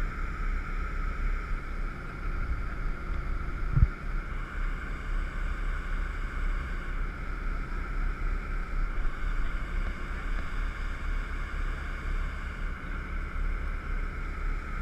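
Steady low rumble and hiss aboard a jet boat, with a single dull thump about four seconds in.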